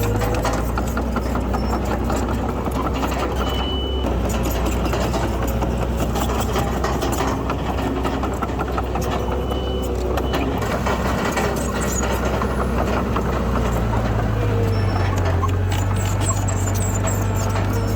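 Heavy diesel earthmoving machinery working: a crawler bulldozer's engine running steadily under load, with rapid clanking and rattling. Two short high beeps sound about 3.5 and 9.5 seconds in.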